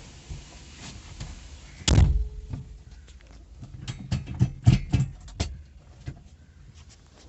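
A heavy slam about two seconds in, like a car door being shut, followed a little later by a quick run of sharp clicks and knocks.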